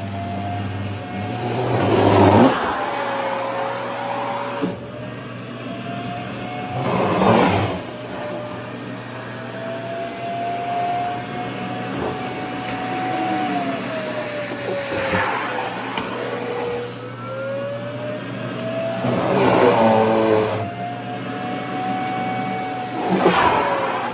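Vacuum cleaner running with a steady motor whine that slowly rises and falls in pitch as the suction load changes while skirt fabric is drawn against the nozzle. Five short, louder rushing surges of air break in through it.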